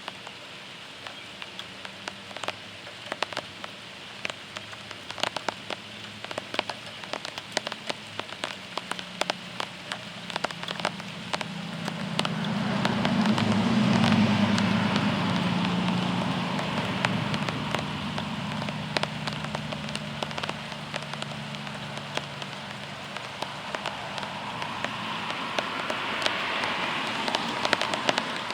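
Heavy rain falling during a thunderstorm, with many sharp drop impacts. From about ten seconds in, a low rumble swells, is loudest a few seconds later, and fades away over the next several seconds.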